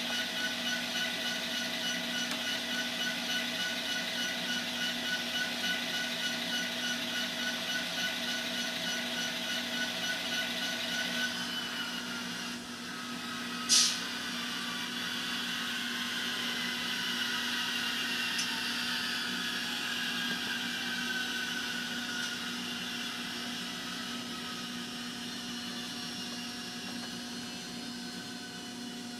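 Digital sound of an EMD GP60 diesel prime mover from a LokSound Micro DCC decoder, played through an N scale locomotive's small speaker. It runs with a steady pulsing beat, then changes about twelve seconds in. A sharp, short sound follows, and the engine tones then fall slowly in pitch as it winds down.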